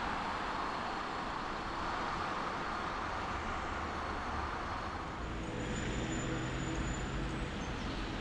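Traffic on a rain-wet street: a steady hiss of tyres and rain, then from about five seconds in the low hum of an engine close by.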